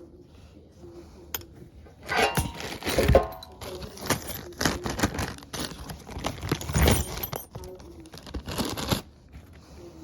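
Irregular rustling, crinkling and small clinks of hands handling parts or packaging, starting about two seconds in and stopping abruptly near the end.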